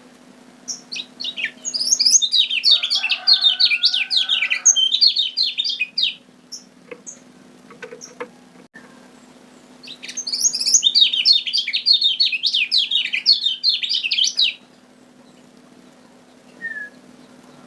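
Kecial kuning (Lombok yellow white-eye) singing: two long bursts of rapid, high chirping notes, each about four seconds, with a short call near the end.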